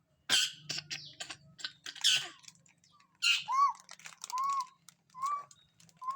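A caged cendet shrike calling: three loud harsh squawks, then a series of short arched whistled notes, about one a second.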